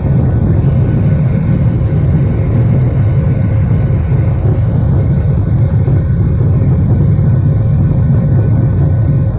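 Boeing 737-800's CFM56 jet engines making a loud, steady low rumble with a faint steady whine above it.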